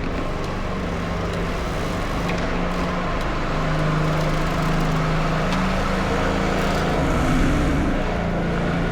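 A motor vehicle's engine running steadily close by, with road noise. Its pitch rises slightly partway through.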